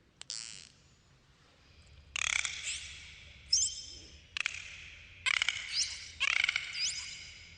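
Dolphins calling underwater: a short buzz just after the start, then from about two seconds in a run of buzzy pulsed calls mixed with high rising whistles.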